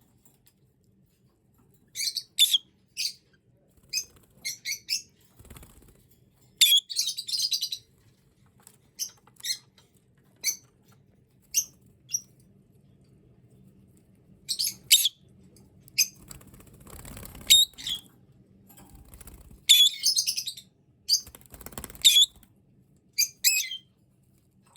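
Peach-faced lovebirds chirping in short, sharp, high-pitched calls, scattered and sometimes in quick clusters. A few brief bursts of rustling come in between, once about a fifth of the way in and twice more later on.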